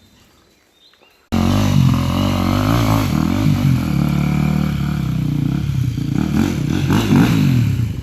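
Dirt bike engine revving, its pitch rising and falling repeatedly. The sound starts abruptly about a second in, after a quiet opening.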